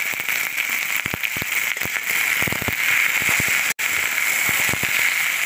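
Cut okra deep-frying in hot oil in a kadhai: a steady sizzle with dense crackling and scattered pops, cutting out for a moment about two-thirds of the way through.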